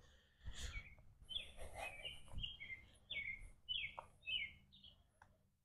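Faint birdsong: a quick series of short chirps, each falling in pitch, about eight of them in under four seconds.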